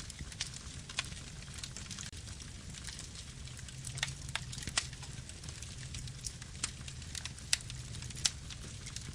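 Campfire burning: irregular sharp crackles and pops over a low, steady rumble of flames.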